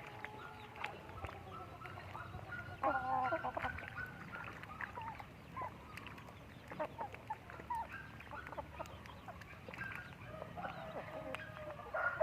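Chickens clucking and calling, a string of short calls with a louder cluster about three seconds in.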